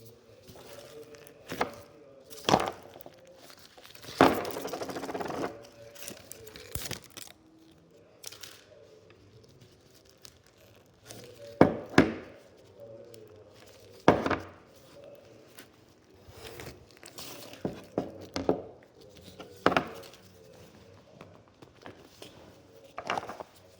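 Hands handling slime-making materials: a scatter of sharp taps and knocks, with a tearing, crinkling rustle about four seconds in that lasts over a second.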